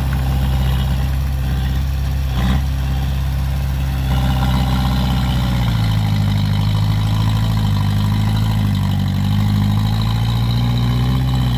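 Heavy diesel engine of earth-moving equipment running steadily. It rises in pitch about six seconds in and wavers as it works under load. There is a short knock about two and a half seconds in.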